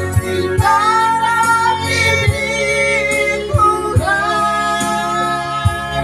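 Singing of an Indonesian Christian worship song, with long held notes, over instrumental accompaniment with a steady beat.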